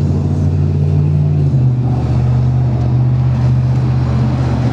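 A nearby engine idling steadily, with a slight shift in its pitch about a second and a half in.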